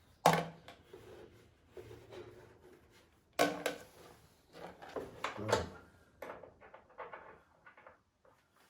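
Hard knocks and clatter of plastic parts and tools being handled as a robot lawn mower is taken apart: a sharp knock just after the start, more knocks around the middle, then small clicks and rattles.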